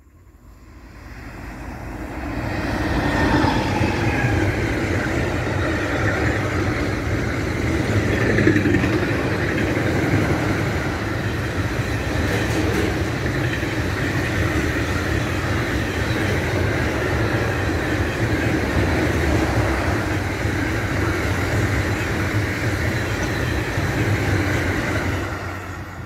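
Freight train passing at speed: the sound builds over the first few seconds as the locomotive approaches, then a long steady rumble of wheels on rail from the wagons, fading near the end.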